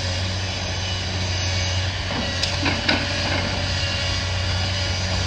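Demolition excavator's diesel engine running steadily, with a few knocks and a clatter of bricks and concrete debris being moved about two to three seconds in.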